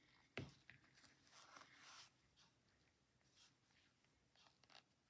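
Faint knitting sounds: needles clicking now and then, with a soft rustle of yarn. There is one sharper click about half a second in.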